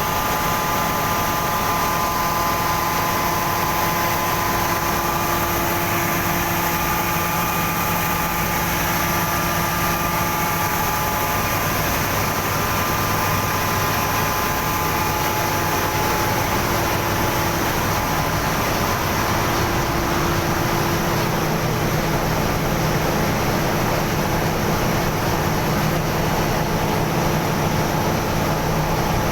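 GEA Westfalia centrifugal separator running as a ship's fuel oil/diesel oil purifier: a steady machinery hum with constant whining tones and no change in speed.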